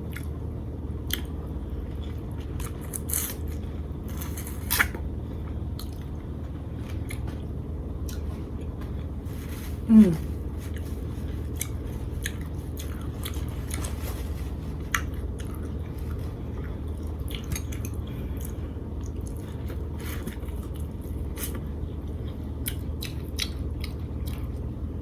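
Close-miked eating sounds: biting and chewing with scattered wet mouth clicks, over a steady low hum. About ten seconds in, a brief vocal sound that falls in pitch.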